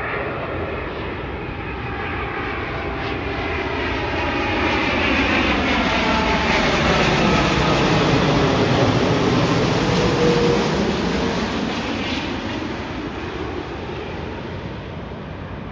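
Jet airliner passing close by: engine noise swells over several seconds, peaks about two-thirds of the way in, then fades, with whining tones that slide down in pitch as it goes past.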